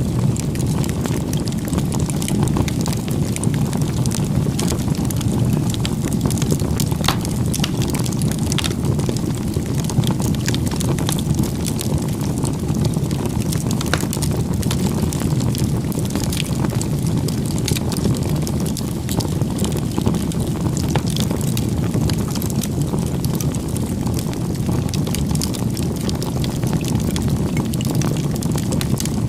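Wood fire burning: a steady low rush of flames with scattered sharp crackles and pops.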